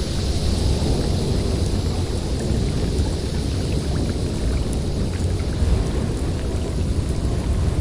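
Blizzard wind blowing steadily, a deep rumble under a broad hiss, with a brighter rush of hiss in the first couple of seconds that eases off.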